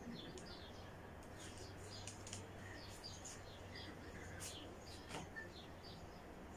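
Several small birds chirping and twittering, faint, with many short high chirps overlapping one another.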